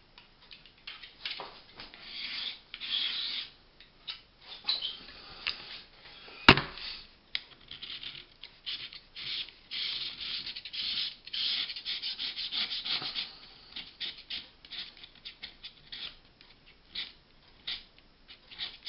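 Irregular rubbing and scraping strokes as soft, still-wet filler is worked off a shelf's white edging, with one sharp knock about six and a half seconds in.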